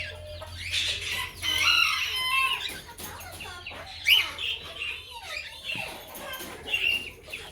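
Small parrots in an aviary chattering: many overlapping short chirps, squawks and whistled calls, over a faint steady low hum.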